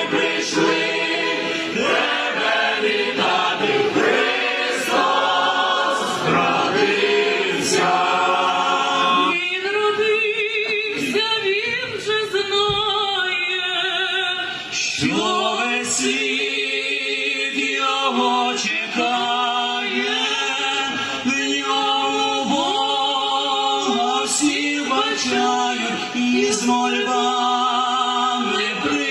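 A choir singing a Ukrainian Christmas carol (koliadka) in sustained, held notes.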